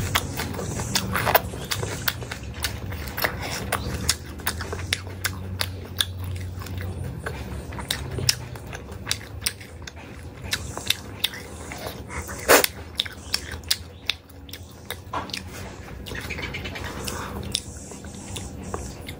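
Close-miked chewing, with wet mouth clicks and lip smacks from a person eating, and one louder sharp smack about twelve and a half seconds in.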